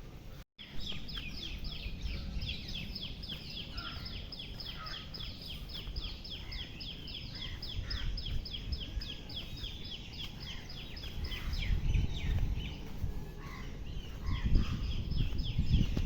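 A bird calling in a fast, even series of high chirps, several a second, each sliding down in pitch. The calls break off about twelve seconds in and start again near the end, over a low rumble that grows louder near the end.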